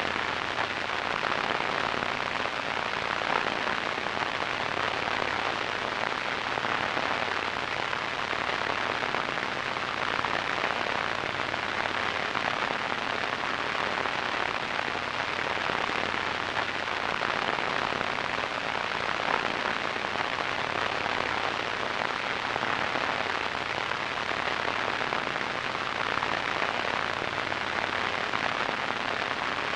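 Radio static: a steady, even hiss that does not change.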